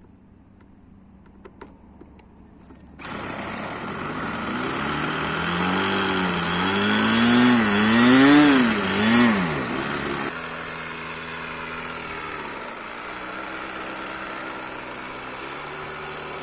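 A model-aircraft OS 55 nitro glow engine running about three seconds in, revved up and down several times, then settling to a steadier, lower speed.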